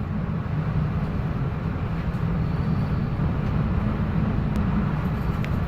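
A ship's steady low engine rumble with the rush of wind and sea over it, as heard on board in a storm.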